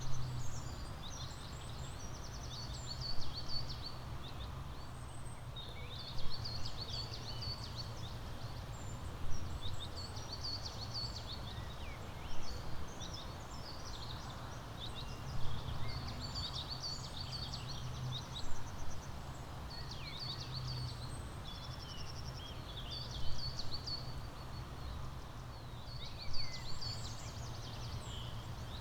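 Songbird singing short, high, chirpy phrases that repeat about every three seconds, over a steady low background hum.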